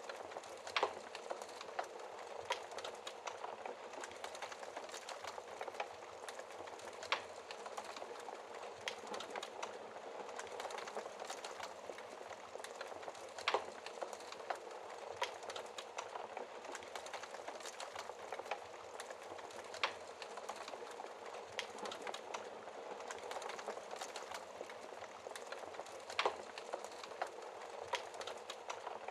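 Fire crackling in a fireplace: a steady soft hiss with many small snaps and a few louder, sharper pops spaced several seconds apart.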